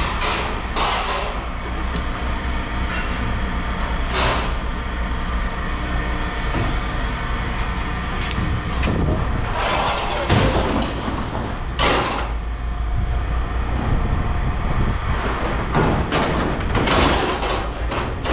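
A heavy machine's engine runs steadily under repeated loud metal-on-metal scraping and screeching as scrap metal is moved. Separate grinding scrapes come about a second in, at about four seconds, several around ten to twelve seconds and a longer run near the end.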